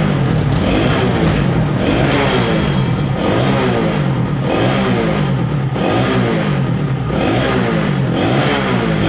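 Kawasaki KLX150's single-cylinder four-stroke engine revved in repeated blips, about one a second, the pitch rising and falling each time, through a quiet aftermarket back-pressure racing exhaust.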